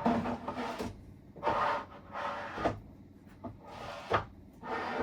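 Kitchen cupboard doors and drawers opening and closing with items being shifted about inside: an irregular string of knocks and rustles.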